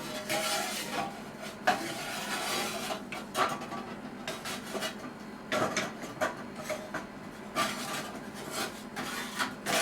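Irregular clinks, knocks and scraping of metal against metal, as the workpiece and tools are handled on the bench, under a faint steady hum.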